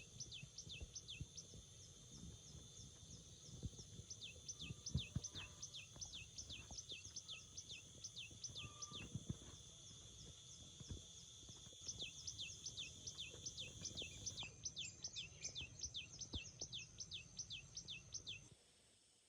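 A bird calling in long runs of quick down-slurred chirps, three to four a second, over a steady high insect drone. A few soft knocks are heard about five seconds in, and everything cuts off abruptly just before the end.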